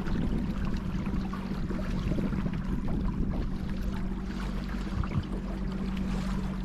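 Battery-powered electric motor driving a kayak, humming steadily, with water splashing and washing along the hull.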